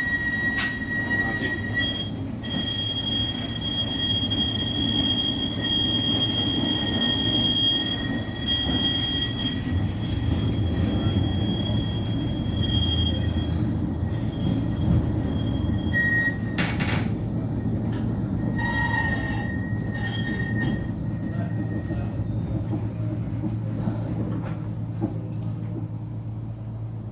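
Bombardier Flexity 2 tram running slowly on rail, its steel wheels giving a steady high-pitched squeal over a low running rumble. The squeal stops about halfway through, returns twice briefly, and then only the rumble remains, easing off near the end.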